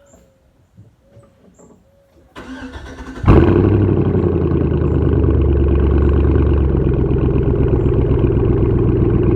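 2005 Chevrolet Silverado's stock 5.3-litre Vortec V8 with a straight-piped exhaust being started: the starter cranks for about a second, the engine catches with a sudden loud burst, then settles into a steady idle. Its idle note drops a little about two-thirds of the way through.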